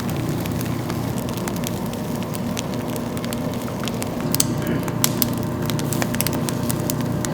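Oysters grilling over a firewood fire: the wood crackles with scattered sharp pops over a steady hiss, the loudest pops coming a little after four and five seconds in.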